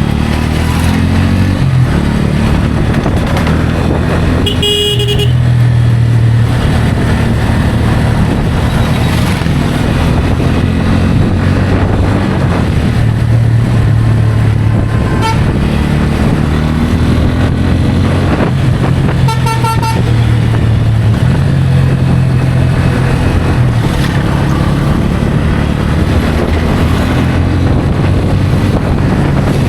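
Pulsar N160 single-cylinder motorcycle engine running at riding speed, its pitch rising and falling with the throttle. Vehicle horns honk about three times: near 5 seconds, briefly around 15 seconds, and again near 20 seconds.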